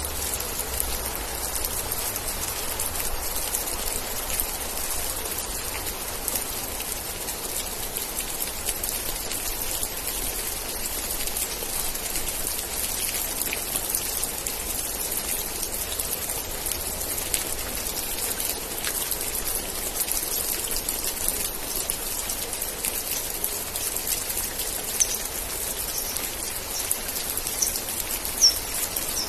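Steady, heavy rain: a dense even patter of drops. A few short, high chirps come through near the end.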